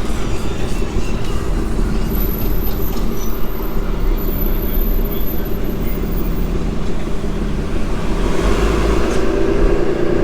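Car road noise heard from inside the cabin while driving slowly: a steady engine and tyre rumble that swells a little near the end.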